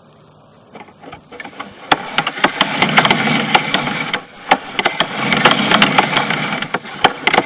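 Sewer inspection camera and its push cable being fed through the pipe: a loud clattering, scraping rattle with many sharp clicks, starting about two seconds in and easing off briefly a little past the middle.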